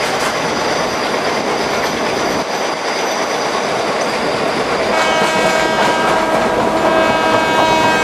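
Indian Railways train running with a steady rumble; about five seconds in, a train horn starts and is held as one long, steady blast.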